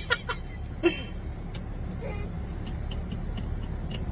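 A car engine running with a low, steady rumble as the car is slowly manoeuvred, with a few faint clicks.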